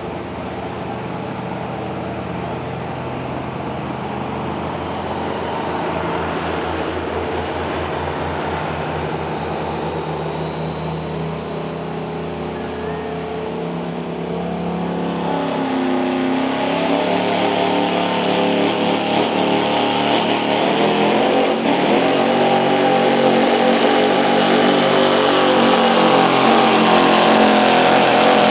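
Diesel pulling truck's engine running, getting steadily louder and climbing in pitch through the second half as it revs up under load.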